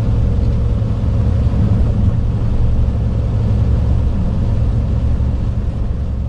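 Truck driving on the highway: a steady low engine and road rumble.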